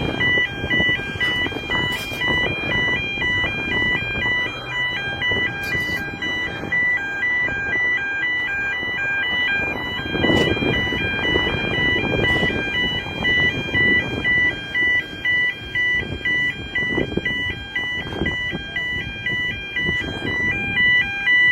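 Movable bridge's electronic warning alarm sounding, switching back and forth between two high pitches in a steady rhythm over a background of low noise, then cutting off suddenly at the end.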